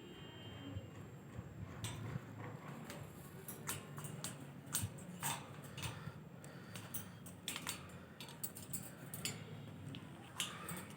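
Irregular light clicks and taps, several to the second in clusters, with a faint low hum underneath.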